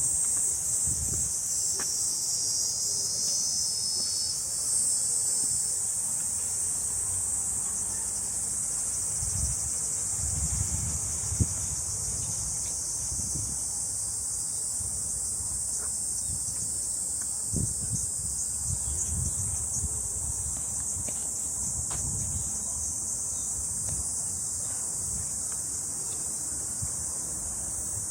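Steady, high-pitched chorus of summer cicadas in the trees, with soft irregular footsteps on the trail underneath.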